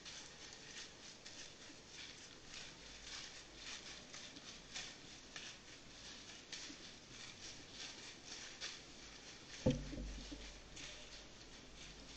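Faint, irregular light ticking and pattering, several ticks a second, with one dull thump about ten seconds in.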